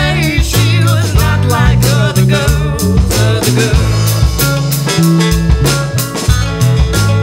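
Live folk-rock band playing an instrumental passage: bass notes changing every half-second or so under regular drum-kit hits and guitar.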